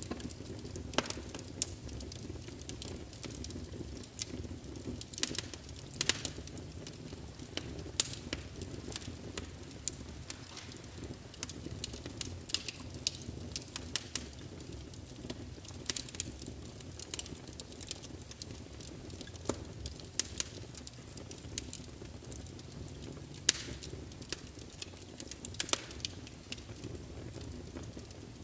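Fireplace wood fire crackling: irregular sharp pops and snaps over a steady low rumble of the flames.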